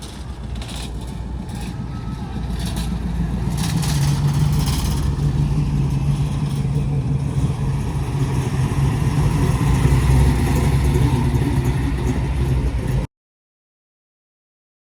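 Classic car engine running close by, growing louder over the first few seconds and then holding a steady low note. The sound cuts off suddenly to dead silence for about two seconds near the end.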